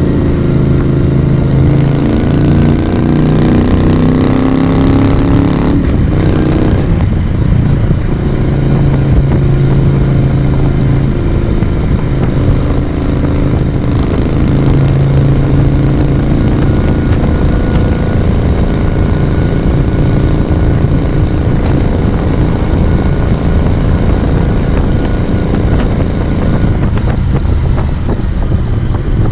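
Moto Guzzi V35's small transverse V-twin engine and exhaust under way, heard from the rider's seat. The engine note climbs for about four seconds, breaks off briefly about six seconds in, then runs steadily.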